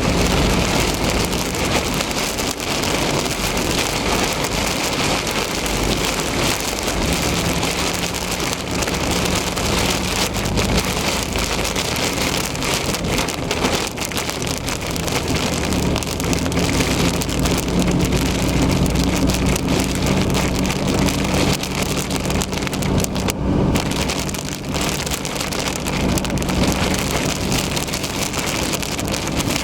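Heavy rain pelting a moving car's roof and windshield in a thunderstorm, a dense, steady hiss and patter, with a low steady hum from the car underneath.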